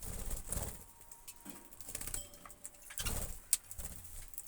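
Pet budgerigars making short soft calls, mixed with low rustling and scattered small clicks.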